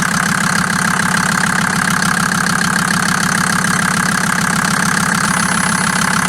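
Mercedes OM602 five-cylinder turbo diesel running steadily with an even, rhythmic diesel clatter.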